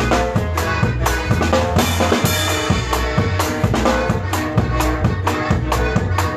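Live conjunto band playing an instrumental passage, the drum kit's kick and snare keeping a steady beat under bass and melody instruments.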